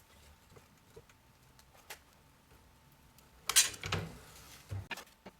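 Sheet-steel repair panel being handled on a workbench: a few faint clicks, then a loud clatter about three and a half seconds in and a shorter knock soon after.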